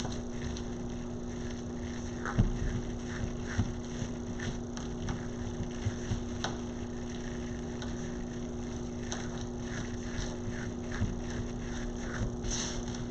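Ribbon being handled and fluffed into poofs on a wreath: soft rustling with scattered small crinkles and clicks, over a steady low hum.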